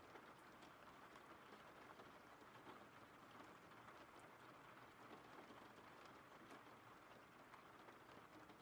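Faint, steady rain from a rain-sounds background track, with scattered light ticks of drops.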